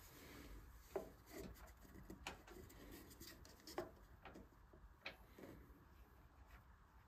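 Faint scrapes and light ticks of a hand carving tool cutting wood, a few short strokes at uneven intervals.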